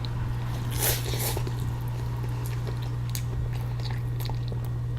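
Close-up mouth sounds of eating wonton soup: soft wet chewing with many small clicks, and a short breathy noise about a second in, over a steady low hum.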